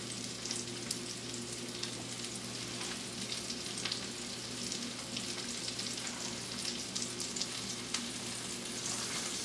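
Flour-dredged rabbit pieces frying in coconut oil in a cast iron skillet: a steady sizzle with frequent small pops and crackles.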